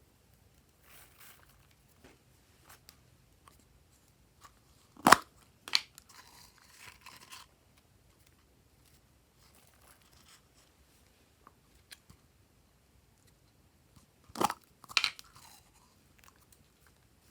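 Slime being mixed and kneaded by hand: faint sticky crackling throughout, with two pairs of sharp, loud pops, about five seconds in and again about fourteen seconds in.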